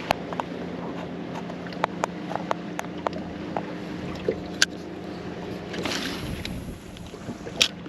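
A steady low motor hum on a fishing boat, with scattered light clicks and taps. There is a brief rush of wind noise about six seconds in.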